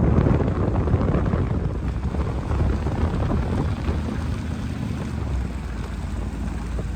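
2002 Ford F-350 dump truck's engine running steadily, a low rumble mixed with wind noise on the microphone.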